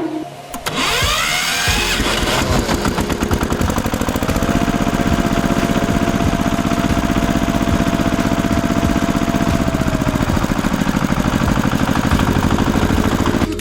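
A small engine running steadily with rapid, even pulses. It comes in under a second in and keeps a constant pace and level.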